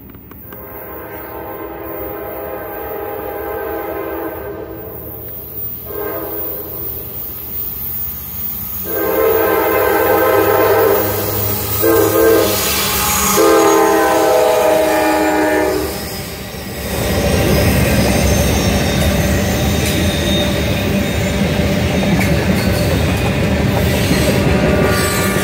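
Norfolk Southern freight train's diesel locomotive sounding its multi-note horn as it approaches, in five blasts growing louder, the fourth one short. Then the locomotives and tank cars pass close by in a loud rumble, with wheels clattering on the rails.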